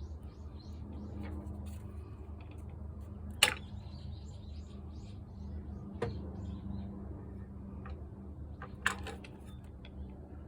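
Sharp clicks and taps of parts and tools being handled while a cordless disc grinder is taken apart. Three clicks stand out, the loudest about a third of the way in, over a steady low hum.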